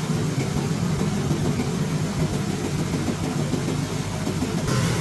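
An engine running steadily with a low rumble; the sound changes abruptly near the end.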